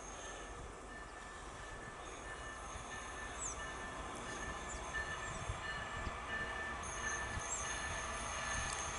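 Diesel locomotive of a freight train approaching, its low rumble growing steadily louder. Thin, high, steady squealing tones ride over it and grow stronger about seven seconds in, as the wheels take the tight curve.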